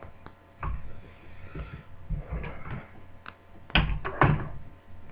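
Handling noise from laptop parts being taken apart: a scatter of short plastic clicks and knocks, with two louder knocks about four seconds in.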